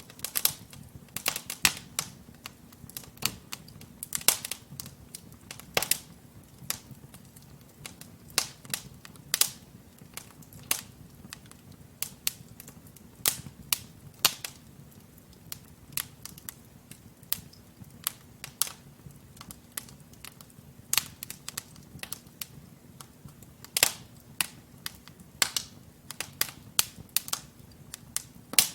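Wood fire in a fireplace crackling: sharp, irregular pops and snaps from the burning logs, several a second, over a faint low hum.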